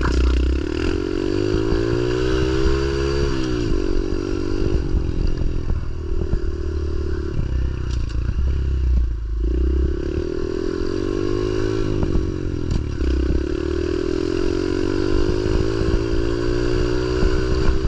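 Pit bike engine revving up and easing off as the rider rides, its pitch climbing and then dropping sharply about three times, with a steady low rumble underneath.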